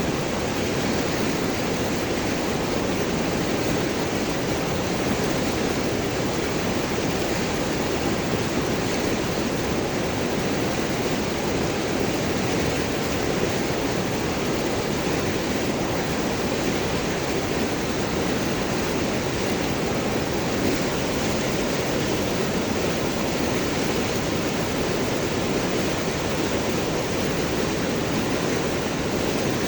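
River water flowing and gurgling over and around large rocks, a steady full rushing sound without breaks.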